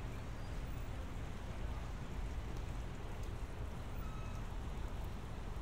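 Steady rain falling, over a low, steady rumble.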